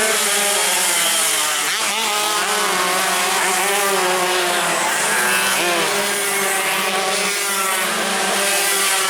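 Several tuned two-stroke road-race motorcycles running at high revs, their engine notes rising and falling and overlapping as they rev through the gears.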